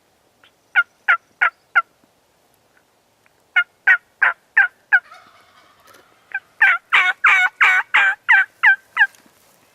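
Wild turkey yelping: three runs of short two-note yelps, about three a second, each note breaking downward. The first run has four yelps, the second five, and the last about ten and loudest, with a brief raspy stretch between the second and third runs.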